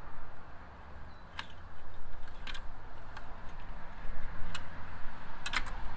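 A handful of sharp clicks and taps, spaced irregularly, with two in quick succession near the end, over a low steady rumble.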